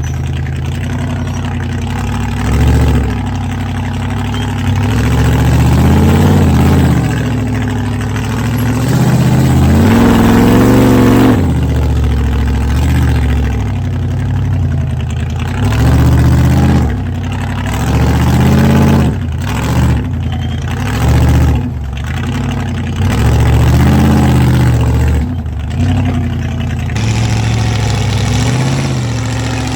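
Off-road rig's engine idling and revving in short bursts again and again while climbing rock, the pitch rising and falling with each push of the throttle.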